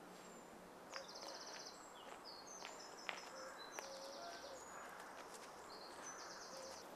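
Faint birdsong: short high chirps and several buzzy trills, with a few sharp clicks, over a steady low background hiss.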